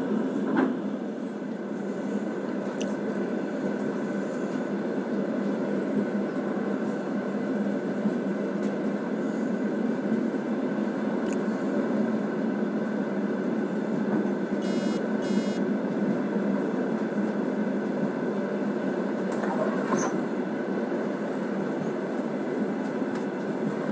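Passenger train running at speed, heard from inside the carriage: a steady rumble and rush of the wheels on the rails. Two short high squeals come about two-thirds of the way through.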